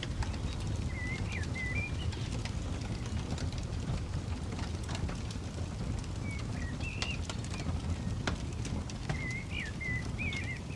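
Campfire crackling with frequent small pops over a low steady rumble. A bird sings short wavering phrases three times: about a second in, around seven seconds, and near the end.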